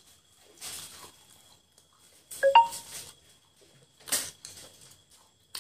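Close-up eating sounds: irregular chewing and wet mouth noises of people eating fried chicken legs by hand. One sharp clink that rings briefly comes about two and a half seconds in.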